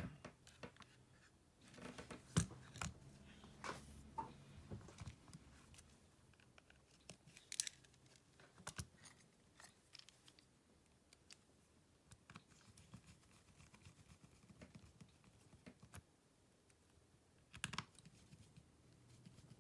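Faint, scattered clicks and short scrapes of small tools and parts being handled during smartphone disassembly, with a few sharper taps about two, seven and seventeen seconds in.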